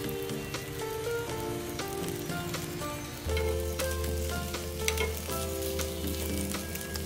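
Oil sizzling and crackling around stuffed eggplant slices shallow-frying in a nonstick pan, with scattered pops as the slices are turned. Background music plays over it, with a bass line coming in a little after three seconds in.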